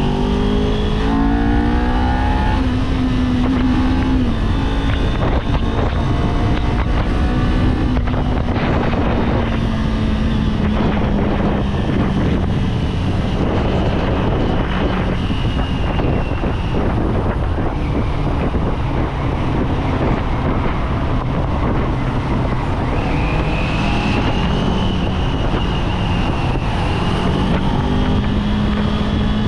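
Kawasaki Z400's parallel-twin engine on the move with wind rushing past: the engine note holds for the first few seconds, sinks slowly as the bike slows through the middle, then rises again as it accelerates near the end.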